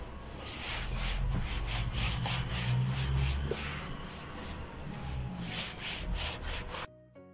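Rapid, repeated rubbing or scraping strokes over a low rumble, cutting off suddenly near the end.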